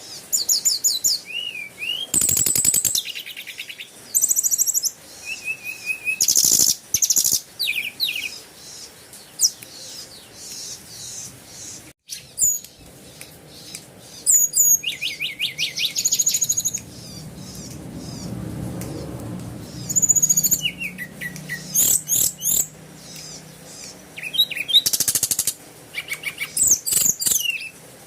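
Small birds chirping and calling: quick high chirps, short buzzy trills and rising whistles, one burst after another.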